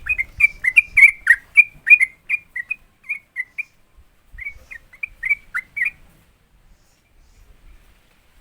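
Yellow-vented bulbul singing its fast 'ropel' song: a quick run of short whistled notes, about three or four a second. It breaks off briefly near the middle and stops about two seconds before the end.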